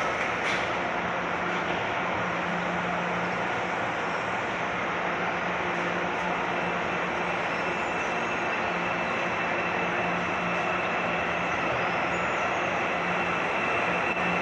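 Salvador metro train running, a steady rail rumble with a low hum and a faint high whine that sets in about four seconds in.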